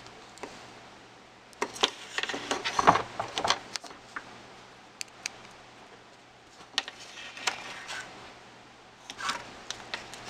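Clicks and rattles of hard plastic RC truck parts and a metal hex driver being handled, in bunches about two seconds in, around seven seconds and near the end.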